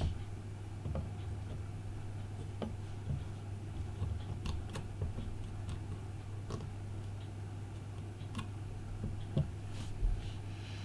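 Scattered small clicks and taps of tools and parts being handled during an iPhone 5 screen repair, over a steady low hum.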